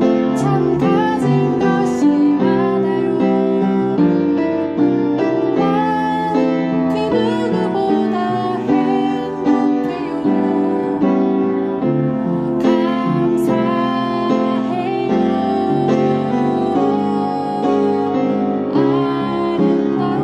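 Piano playing a gentle, slow melody over sustained chords.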